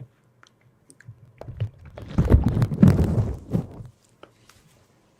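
Close-up crunching and crackling, a foley prop being handled: a few light clicks, then a dense crunchy burst lasting about two and a half seconds that stops abruptly.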